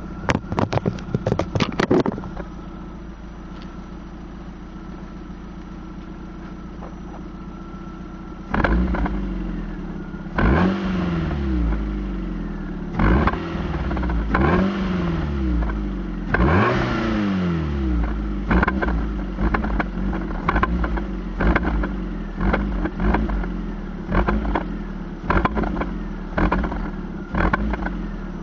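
Fiat Punto's 1.2 16V petrol engine breathing through an aftermarket Remus exhaust: sharp clattering knocks for about two seconds, then a steady idle, then a series of rev blips that rise and fall back, with quicker, shorter blips in the second half.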